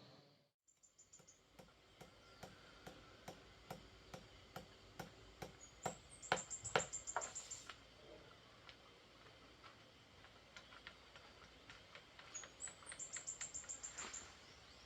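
Faint, evenly spaced tapping clicks, about two a second, thinning out after the middle, with three short trills of rapid, very high clicks.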